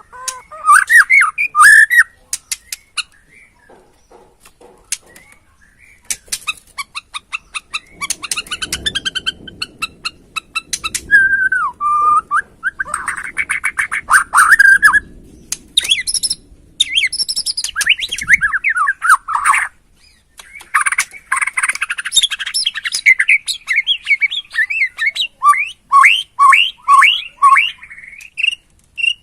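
White-rumped shama (Borneo murai batu) singing a varied, loud song of whistled, gliding phrases mixed with quick rattling runs of clicks.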